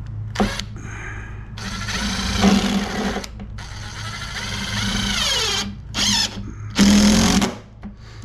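Power drill running in several bursts, a short blip and then longer runs, as holes are drilled or screws are driven into the bench frame; its pitch sags under load near the end of the longest run.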